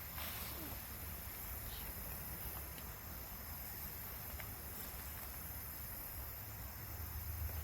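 Quiet outdoor background: a steady low rumble with a faint high hiss and a few faint ticks.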